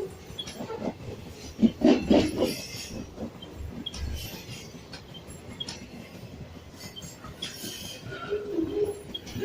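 Train running on the rails, uneven noise with a cluster of louder knocks about two seconds in and a short pitched squeal near the end.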